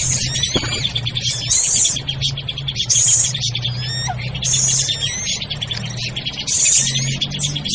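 A played-back bird-lure recording of many small birds calling at once: rapid chirps and rising whistles, with a harsh chattering burst about every second and a half. A steady low hum runs under it.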